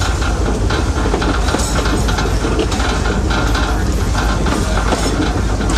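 Heritage rack-railway train running along the track: a steady, loud rumble of wheels on rail with frequent clicks and knocks from the rail joints.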